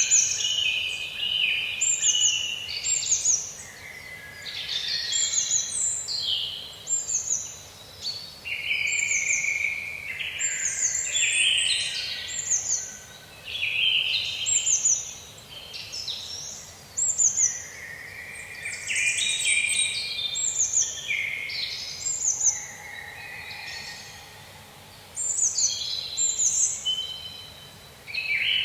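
Several birds singing at once in a forest, their phrases of whistles and chirps overlapping with almost no pause.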